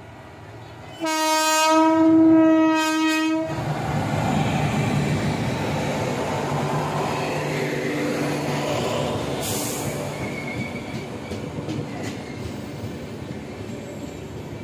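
An Indian Railways electric locomotive sounds a long horn blast starting about a second in and lasting about two and a half seconds. Then the express's LHB coaches pass at speed with a steady rolling rumble of wheels on rail, easing slightly toward the end.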